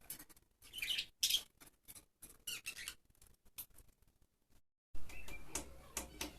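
Budgerigars chirping and squawking in short, scattered high-pitched bursts, broken by a brief dropout about four seconds in, after which fainter clicks and chirps continue.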